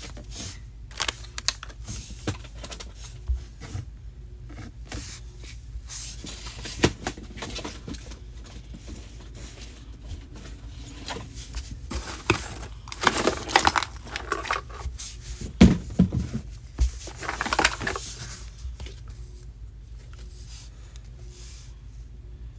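Small objects being handled and packed into plastic drawers: crinkling plastic with scattered clicks and knocks, busiest about halfway through.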